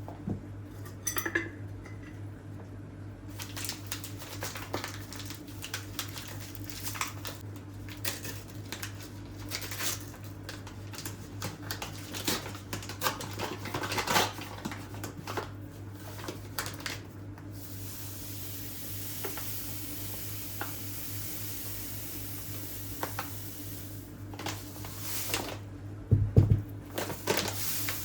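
Kitchen work: dishes and cutlery clinking and knocking, with a steady hiss for about six seconds past the middle and a heavy thump near the end, over a low steady hum.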